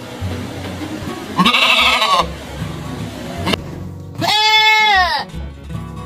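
Goats bleating twice: a quavering bleat about a second and a half in, then a longer, smoother bleat that rises and falls in pitch about four seconds in, over background music.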